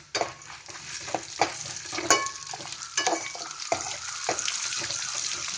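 Green chillies dropped into hot oil with frying peanuts and roasted chana dal: a sudden sizzle that settles into steady frying, with a metal spoon stirring and clicking against the pan and one ringing clink about two seconds in.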